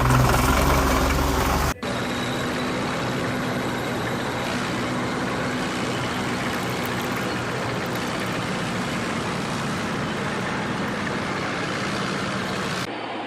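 Vehicle engine running steadily, with no change in speed. It cuts in abruptly about two seconds in, after a different engine-like sound, and cuts off just before the end.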